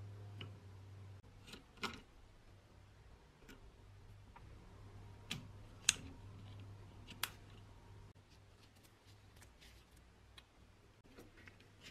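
A few sharp clicks and light taps, the loudest about six seconds in, over a low steady hum.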